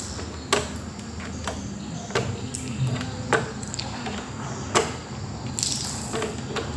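Plastic control knobs being pulled off a Soundcraft EFX12 mixer's potentiometer shafts one at a time: a series of sharp, irregularly spaced clicks, with a short scrape near the end.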